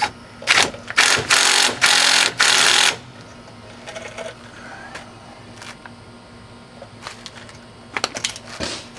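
A power wrench running the wheel hub's mounting bolts down in several short bursts of rapid rattling. A few lighter clicks of tool work come near the end.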